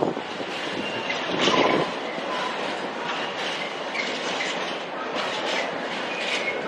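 Train moving along the platform tracks: wheels clattering over rail joints, with short faint squealing tones from the wheels now and then.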